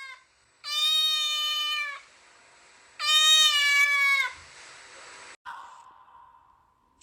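Domestic cat meowing twice: two long, steady meows, each dipping in pitch at the end.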